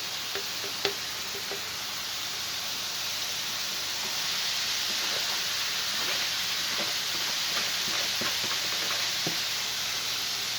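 Onions and bell peppers frying in a pan, sizzling steadily and growing a little louder after about four seconds, with a few light clicks of a utensil against the pan.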